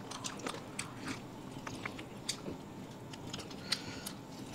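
People chewing and biting food, with scattered short clicks of mouth and eating sounds.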